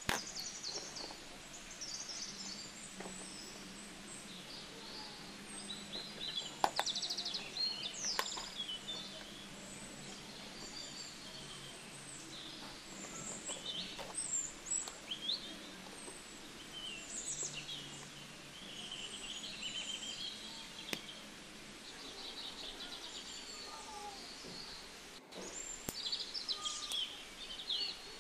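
Small birds chirping and twittering throughout, many short high calls, with a few sharp clicks in between.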